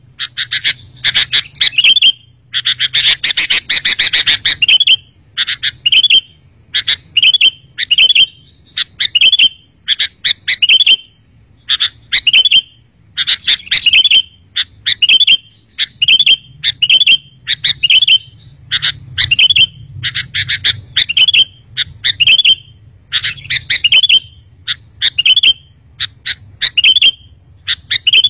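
Sooty-headed bulbul (kutilang) calling over and over: short bright chirping phrases about once a second, with a longer burst of rapid chatter about three seconds in.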